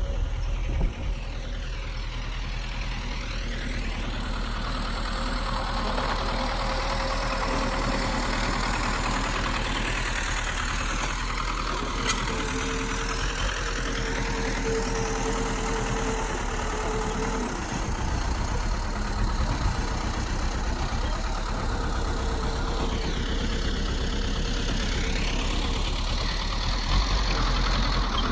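A bulldozer's heavy diesel engine running steadily.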